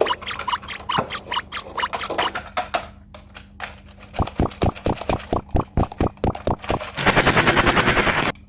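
A run of sharp clicks, about four a second, then after a short pause a faster series of clicks that turns into a dense rapid rattle near the end.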